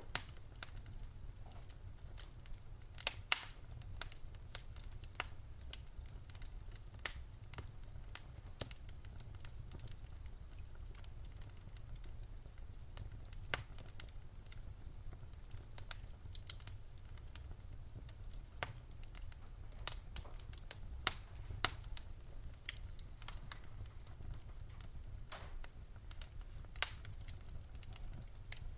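Burning firewood crackling and popping in a fireplace: irregular sharp snaps, a few louder ones, over a low steady rumble of the fire.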